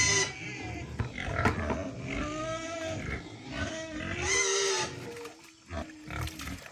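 Pigs squealing in a series of pitched calls, the loudest a little over four seconds in, with a sharp knock about a second and a half in.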